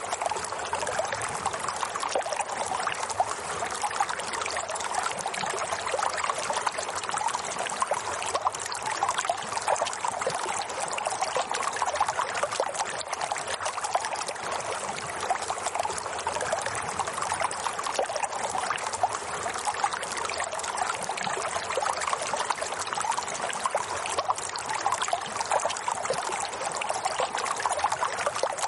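Running water trickling and splashing steadily and evenly, with no pauses or changes.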